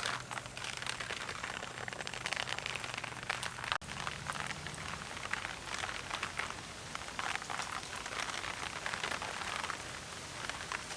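Heavy rain falling, a steady hiss dense with sharp, close drop strikes. There is one momentary break just under four seconds in.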